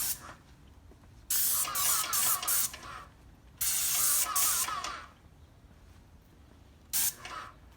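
Paint being sprayed in three bursts of hiss, two long ones then a short one near the end, each starting and stopping sharply as the spray is triggered on and off.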